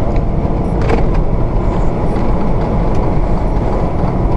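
Semi-truck cab interior noise while driving: steady engine and road rumble over a rough, potholed road, with a short knock about a second in.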